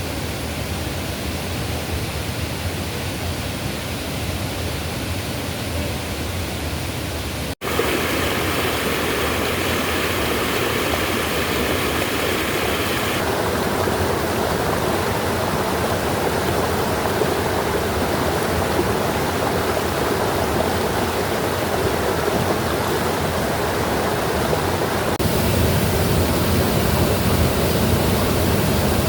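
Swollen forest stream rushing steadily, a loud continuous water noise. After a brief dropout, its tone changes suddenly a few times.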